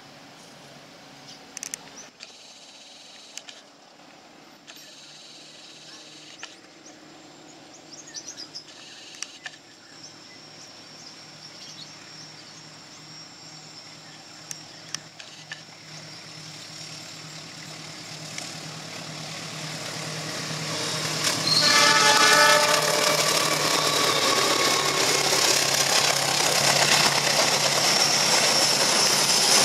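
Passenger train approaching and passing close by. A faint distant rumble grows steadily louder, the train's horn sounds briefly about two-thirds of the way in, and then the passing cars' wheels on the rails make a loud, continuous noise.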